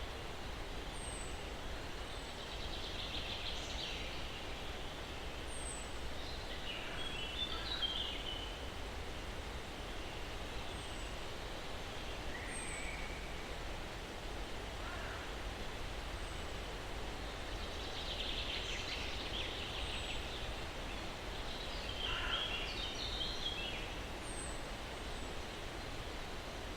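Soft steady breeze hiss in pine trees with birds singing: a rapid trill about three seconds in and again near twenty seconds in, quick chirping phrases twice, and thin high calls scattered throughout.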